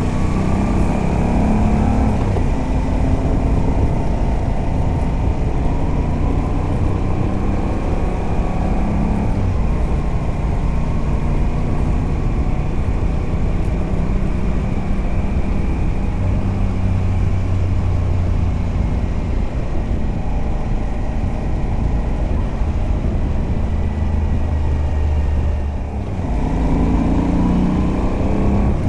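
Moto Guzzi V85TT's air-cooled 853 cc transverse V-twin, with a Mistral de-cat pipe on the stock exhaust, running under way as the throttle is worked and the engine note rises and falls. Near the end there is a brief lull, then a rising note as the bike accelerates.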